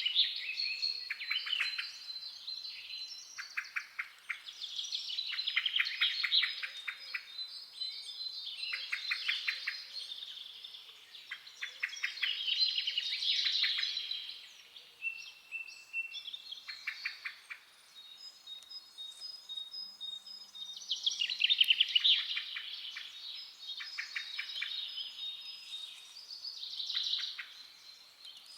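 Forest birds singing: fast trilled phrases repeat every two or three seconds, over thin, high, steady whistled notes from other birds.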